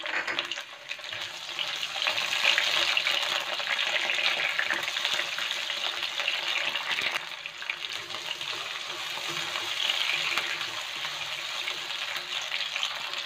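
Onion and tomato wedges sizzling and crackling in hot oil in a nonstick wok, growing louder about two seconds in, while a turner stirs them in the pan.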